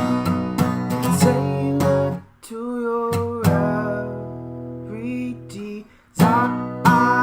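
Blues played on acoustic guitar. The strumming stops about two seconds in for held notes that bend slightly in pitch, then starts again about six seconds in.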